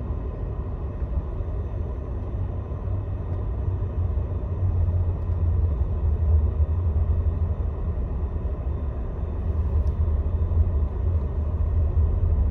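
Steady low rumble of a Scania Astromega double-decker coach on the move, engine and road noise heard from inside the cabin at the front, swelling slightly about halfway through.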